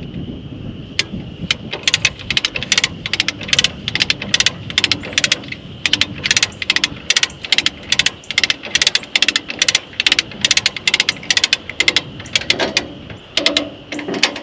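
Hand come-along being ratcheted: its pawl clicks in a steady run of about three clicks a second as the cable is drawn in under tension to pull a tractor loader bucket back into place.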